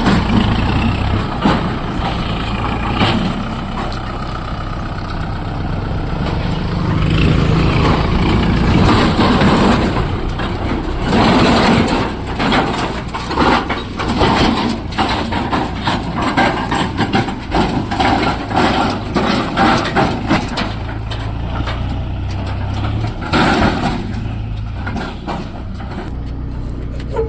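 Kubota MU4501 tractor's four-cylinder diesel engine running steadily, with many short knocks and rattles over it.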